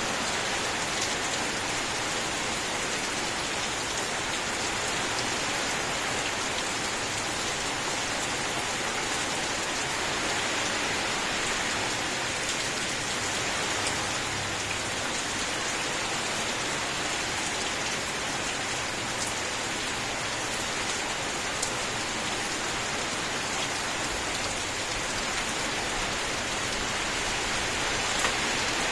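Steady rain falling: an even, continuous hiss with faint, scattered sharper drop ticks.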